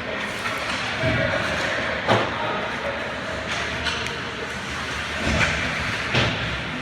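Ice hockey arena during a game: a steady hall hum with faint crowd chatter, and a few thuds off the boards, about two, five and six seconds in.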